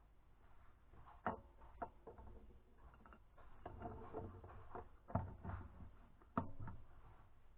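Light knocks and clicks of tools and metal engine parts being handled during engine assembly, with a few sharper taps spread through it.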